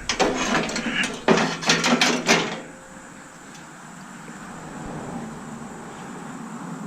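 Metal clattering and knocking as parts and wiring are handled inside a stainless steel Bunn-O-Matic coffee maker being dismantled: a quick run of sharp knocks that stops about two and a half seconds in, leaving a steady background hiss.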